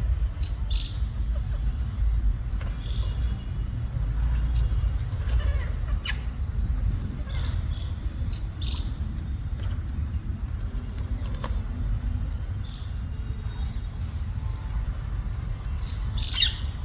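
Rose-ringed parakeets giving short, high calls every second or two, with a louder call near the end, over a steady low rumble.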